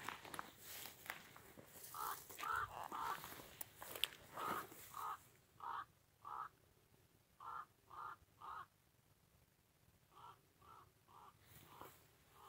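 A bird calling in short repeated notes, mostly in groups of three, with footsteps through dry grass in the first couple of seconds.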